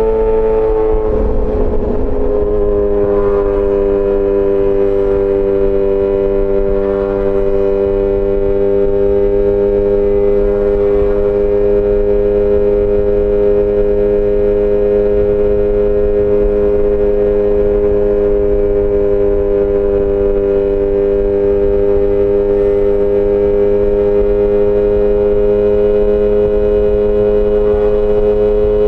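Yamaha XJ6 S inline-four engine through an SC-Project exhaust, running at a steady engine speed while riding. Its pitch drops briefly about a second in, then holds level and rises slightly near the end.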